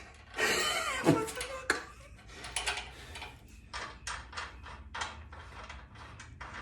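Metal clanks and scrapes of hand tools working on a car's front steering knuckle and control arm, ending in a run of short, regular strokes about two or three a second.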